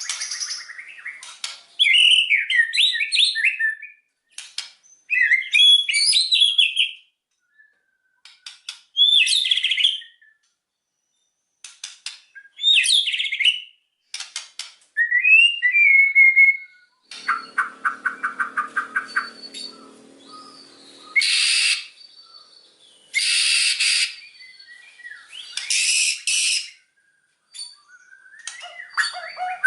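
White-rumped shama (murai batu) singing in short, varied phrases of sliding whistled notes, separated by silent pauses. Partway through come a rapid rattling run and several harsh, raspy calls, part of the song's mix of mimicked 'fill' (isian) notes.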